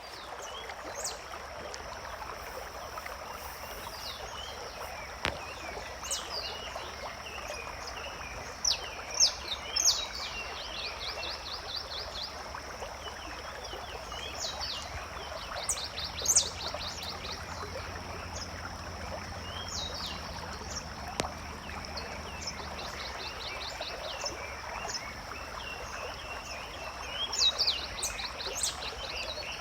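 Forest ambience: small birds calling, with several bursts of quick repeated trill notes, over a steady rush of flowing water. A thin, steady high-pitched tone runs beneath the birds.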